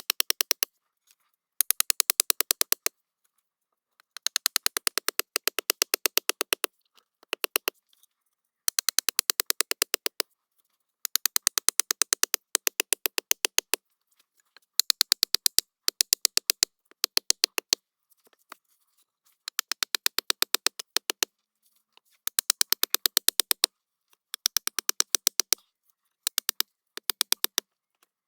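A metal blade working wood in repeated scraping strokes: runs of rapid rasping lasting one to two seconds, with short pauses between them.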